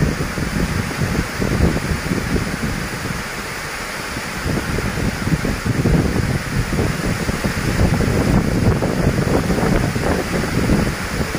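Storm wind buffeting the microphone in uneven gusts, with a steady rushing hiss behind it.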